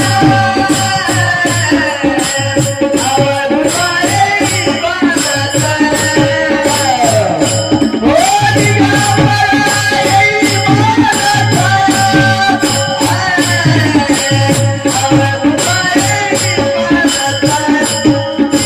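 Marathi devotional panchapadi sung by a man in a high voice with long sliding notes, over a steady drone, a regular hand-drum beat and continuous jingling percussion.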